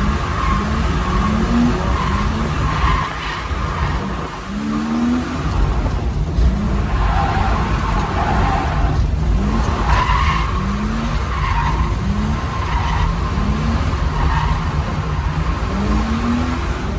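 BMW E36 drift car's engine revving hard with its tyres skidding while drifting, short rises in pitch repeating about once a second.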